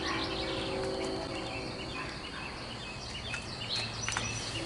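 Small birds chirping over outdoor background noise. A steady low hum fades out in the first second or so and returns near the end.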